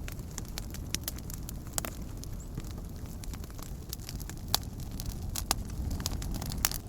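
Wood campfire burning: a steady low rumble of flames with frequent sharp crackles and pops, three louder pops in the second half.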